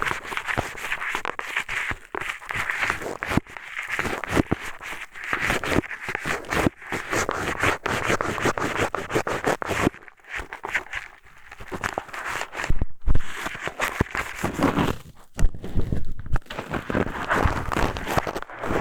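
Eyeglasses' arm used as an ear pick, scraping and rubbing inside a binaural microphone's ear: close, dense scratching and crackling with a couple of short pauses.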